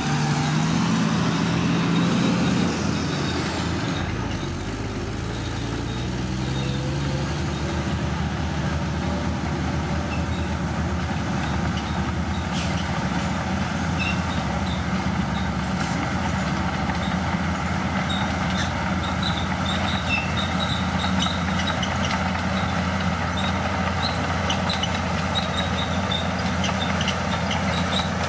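Bulldozer's diesel engine rising in pitch over the first couple of seconds, then running steadily under load. Short high squeaks come through in the second half.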